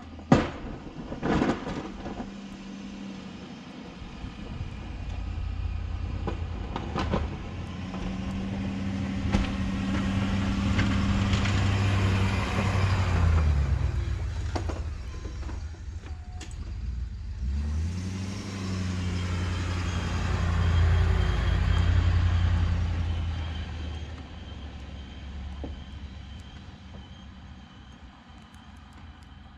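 Ford F350 pickup engine working under load while plowing snow, the engine note rising and falling as the truck drives, backs off and pushes again. A few sharp knocks come in the first several seconds.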